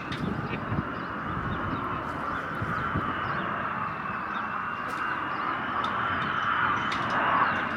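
Jet airliner engines running with a steady high whine over a rushing roar, growing louder about seven seconds in and then dropping off.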